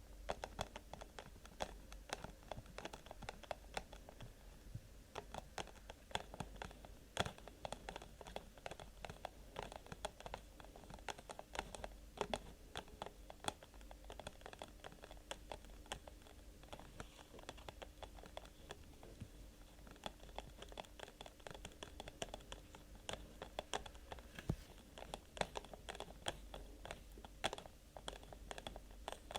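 Rapid, irregular light tapping and scratching on an object for ASMR, a steady stream of small clicks.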